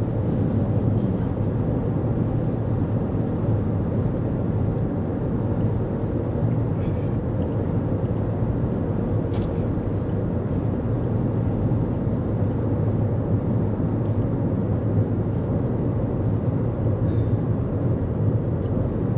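Steady cabin noise of a 2024 Toyota Corolla Cross cruising at highway speed: an even rush of tyre and wind noise over a low hum.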